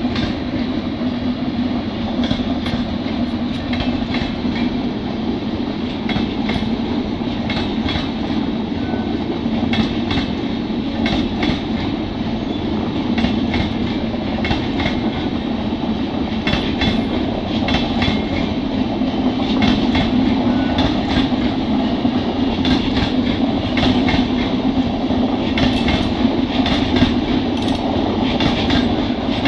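LHB passenger coaches rolling past: a steady rumble of steel wheels on rail with irregular clicks and clatter as the wheels cross the rail joints.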